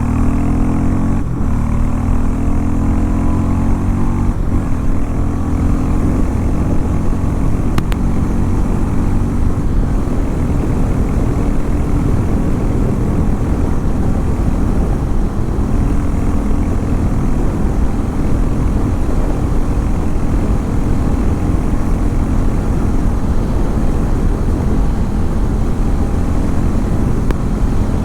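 Harley-Davidson X440 T's 440 cc single-cylinder engine running, its pitch rising and falling in the first few seconds, then holding steady.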